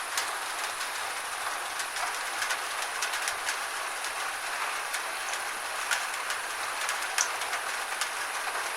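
Steady rain with individual drops ticking sharply on a surface at irregular intervals.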